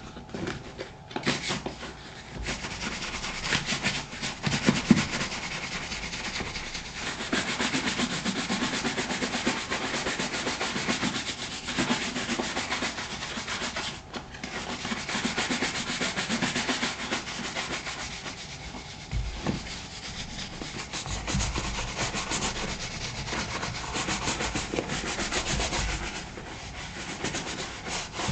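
A shoe brush scrubbed fast over creamed leather boot uppers to raise a shine: dense, rapid back-and-forth brushing, with a brief pause about halfway.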